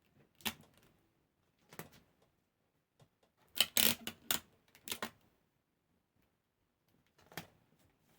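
Scattered short rustles and taps of paper cutouts being handled and set down on a table: a few single clicks, and a quick cluster of several in the middle.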